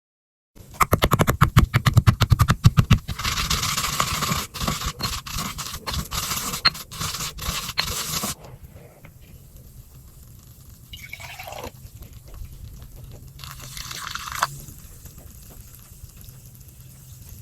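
Compacted cornstarch being crushed: a quick run of crisp crackles, then a dense squeaky crunching that stops suddenly after about five seconds. Quieter handling follows, with a short falling squeak and one more brief crunch that ends sharply.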